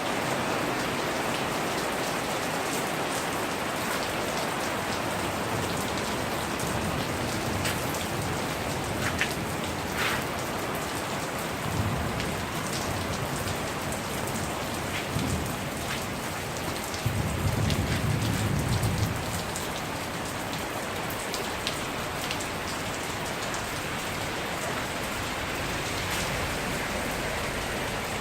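Steady rain falling, with scattered sharp drips standing out. A low rumble swells for about two seconds a little past the middle.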